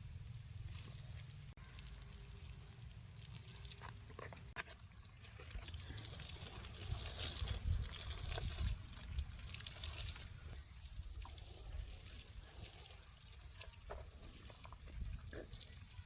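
Water running and trickling steadily, with a few faint clicks and knocks.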